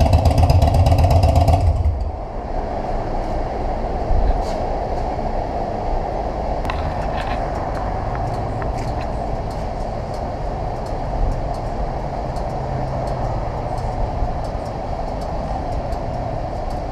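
Harley-Davidson Dyna Super Glide's air-cooled V-twin idling, then switched off about two seconds in, after running to circulate fresh oil through the new filter. A steady background hum with a few faint clicks follows.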